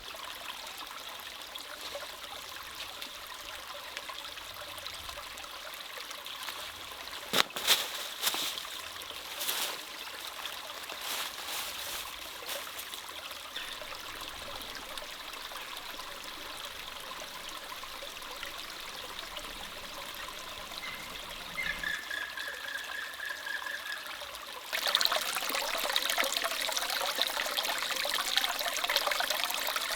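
Small stream trickling, getting louder about five seconds before the end. A few sharp knocks about seven to eight seconds in, and a brief high steady tone a little after two-thirds of the way through.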